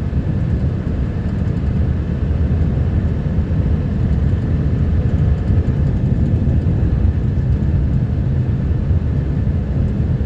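Snow-plow truck driving, a steady low rumble of engine and road noise heard from inside the cab.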